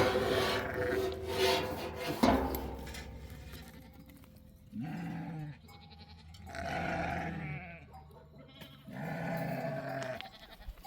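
Sheep and goats of a grazing herd bleating: three drawn-out bleats of about a second each in the second half, after two louder sudden sounds near the start.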